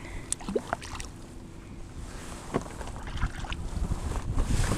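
Scattered small clicks and knocks of handling on a kayak, over low wind rumble on the microphone that grows stronger near the end.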